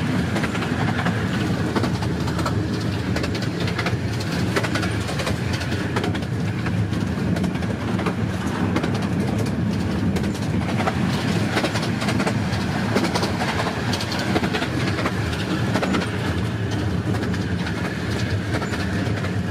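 Miniature 15-inch-gauge railway train running along the track, heard from on board: a steady rumble with many quick clicks from the wheels on the rails.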